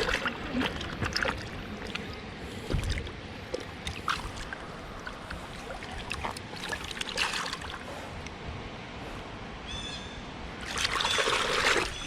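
Water trickling and splashing in the shallows, with small scattered splashes and one louder splash near the end.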